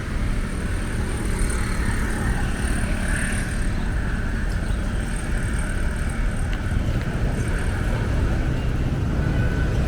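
City street ambience: a steady rumble of passing traffic, with no single sound standing out.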